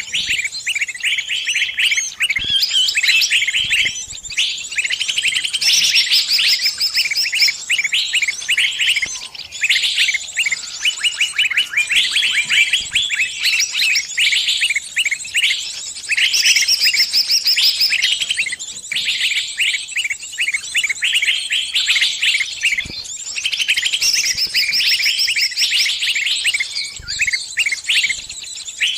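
Small songbird giving rapid, high chirping calls in close succession, with only brief pauses: the distress calls of a trapped bird calling for help from its flock.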